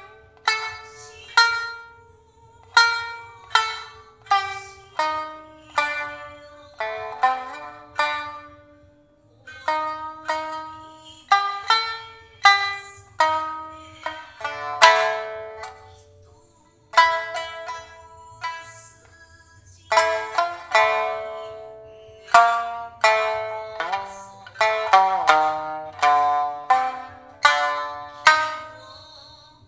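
Shamisen played solo: single plucked notes struck sharply and dying away, in phrases with short gaps between them, and a sliding note near the end.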